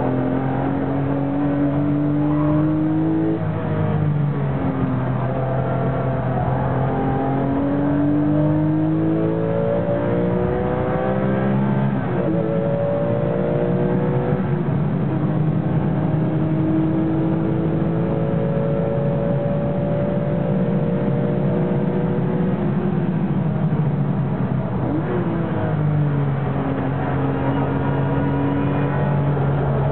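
Porsche 996 GT3 RS's flat-six engine heard from inside the cabin, climbing in pitch through the gears with upshifts, then running steadier and easing off briefly near the end, under constant road and tyre noise.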